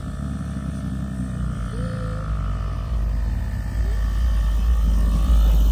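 Car on the move: a steady low engine and road rumble that grows louder toward the end.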